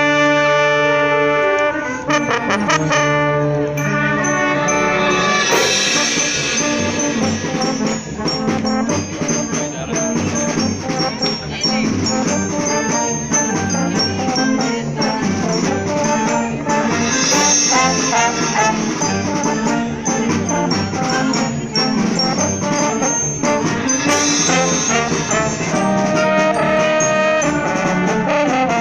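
Symphonic wind band playing, its brass section holding loud sustained chords, with three crashes about 5, 17 and 24 seconds in.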